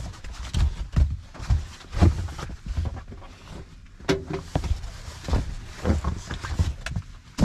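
Raindrops striking the roof of a car, heard from inside the cabin: irregular dull taps and thuds, several a second, over a faint hiss.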